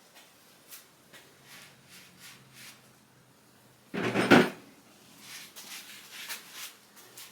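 Light clicks and knocks of metal engine parts being handled, with one louder clunk about four seconds in.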